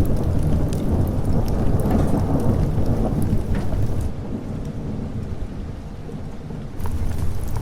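Rolling thunder over steady rain, the deep rumble heaviest in the first few seconds and dying away after about four seconds, with scattered sharp crackles and drips throughout.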